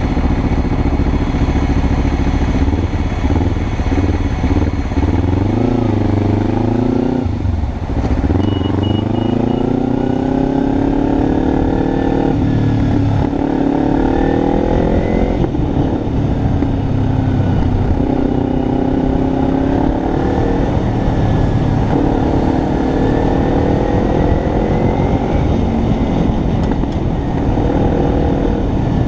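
Kawasaki Ninja 300's parallel-twin engine riding and accelerating, its pitch climbing in each gear and dropping back at each of several upshifts.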